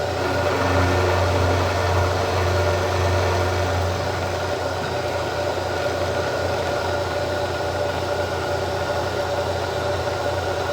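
Milling machine running steadily while cutting a steel control rod: a steady motor hum with a higher whine over it, slightly louder in the first few seconds.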